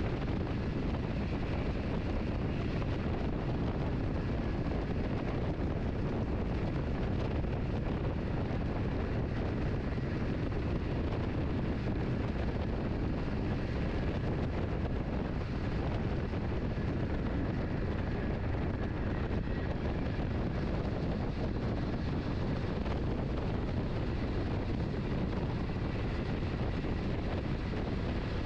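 Steady low rumble and rushing noise of a moving train running along the line, unbroken and without clear rail-joint clicks.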